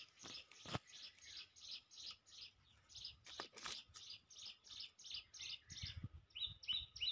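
A bird calling in a long run of short, high chirps, about three or four a second, the notes getting sharper near the end. A few sharp clicks cut in.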